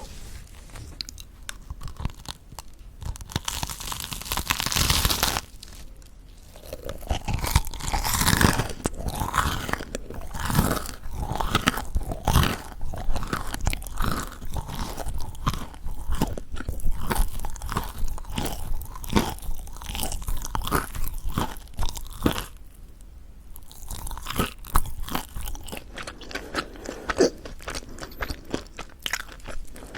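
Close-miked biting and chewing of crispy mocha chewy bread. A dense crackle of biting through the crisp crust comes a few seconds in, followed by a long run of crunchy chews that pauses briefly about three-quarters of the way through.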